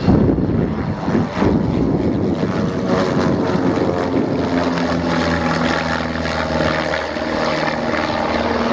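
Piston-engined propeller aircraft droning in flight, with a steady engine note settling in about halfway through.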